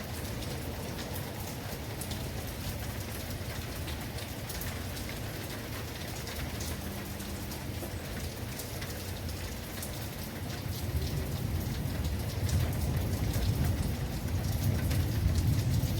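Rain falling steadily, with many individual drops pattering on a surface. A low rumble builds and grows louder over the last few seconds.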